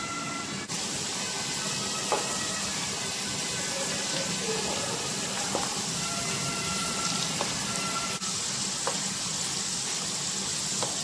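Potato chunks sizzling steadily as they fry in oil in a wok, with a few clicks of a metal utensil turning them.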